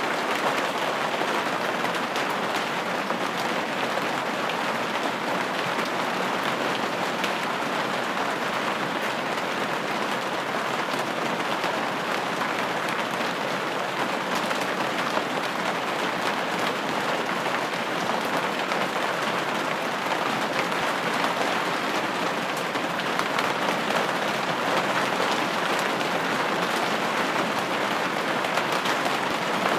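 Steady rain pattering on a window pane, a dense even patter of drops with no changes.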